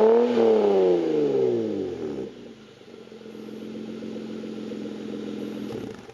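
Toyota Supra NA's 3.0-litre straight-six through a Greddy Trust Performance Extreme 2 cat-back exhaust. A rev peaks just after the start and falls back over about two seconds to a steady idle. The tone is deep, and the sound cuts off near the end.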